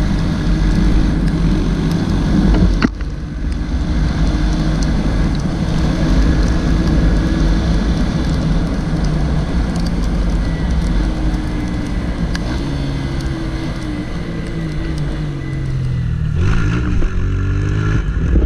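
Honda Titan 160 motorcycle's single-cylinder engine running while being ridden, over a steady rush of wind and road noise. Its pitch rises, falls and steps through gear changes in the last several seconds, with a brief sudden drop about three seconds in.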